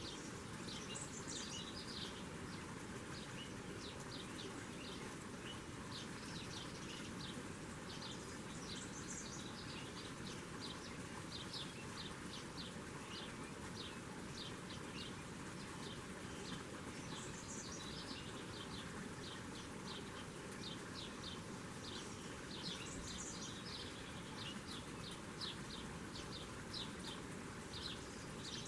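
A songbird singing the same phrase over and over, a few high notes followed by a run of quick chirps, repeating every several seconds over a steady outdoor hiss.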